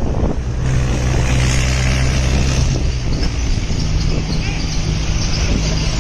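Tractor engine running steadily. Its engine note shifts slightly about halfway through.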